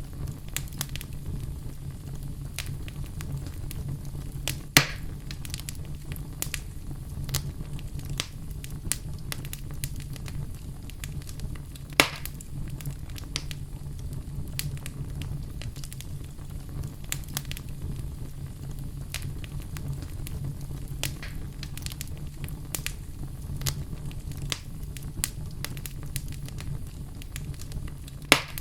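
Fire burning in a fireplace: a steady low rumble under a constant stream of small crackles. Three louder pops stand out, about five seconds in, about twelve seconds in, and near the end.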